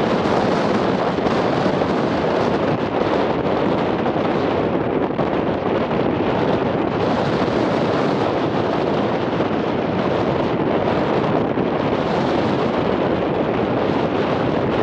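Thunderstorm wind rushing across the microphone: a loud, steady rushing noise with no breaks.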